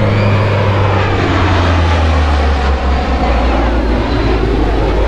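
Jet aircraft passing low, its engine noise loud and steady, the pitch dropping about two seconds in as it goes by.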